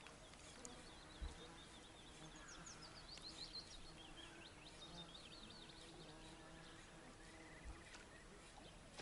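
Quiet outdoor ambience with faint songbird chirping in quick series, densest in the middle.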